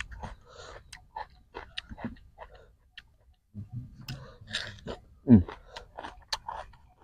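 Close-miked chewing of crunchy raw green fruit: irregular wet clicks, crunches and mouth smacks. About five seconds in comes a short vocal hum that falls in pitch.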